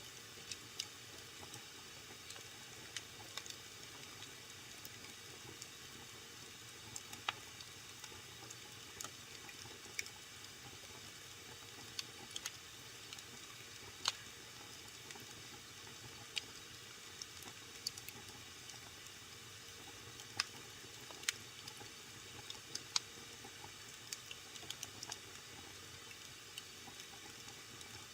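Wood fire burning in a fireplace with a soft steady hiss and irregular sharp crackles and pops, several a second, a few of them louder.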